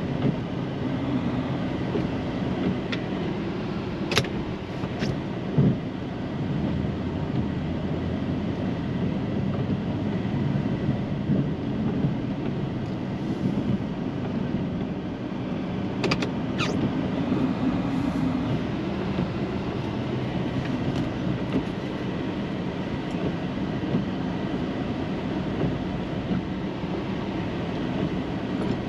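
Snow plow truck running steadily while plowing heavy, wet snow, a continuous low rumble, with a few sharp knocks about four seconds in and again around sixteen seconds.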